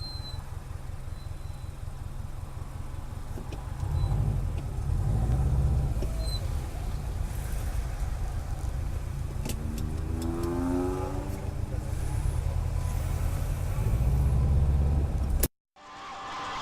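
Steady low rumble of a car's engine and road noise, as picked up inside the vehicle, with a short rising tone about ten seconds in. It cuts off abruptly near the end.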